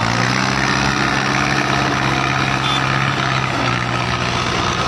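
Belarus 510 tractor diesel engines running steadily at a constant pitch, a low engine hum with no revving.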